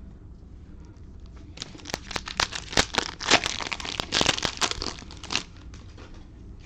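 Cellophane wrapper of a trading-card cello pack being torn open and crinkled: a dense run of sharp crackles starting under two seconds in and lasting about four seconds.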